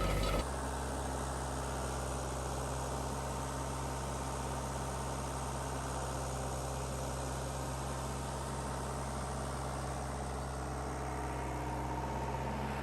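Tractor engine running steadily with an even low hum, following a brief burst of louder clattering machinery that cuts off about half a second in.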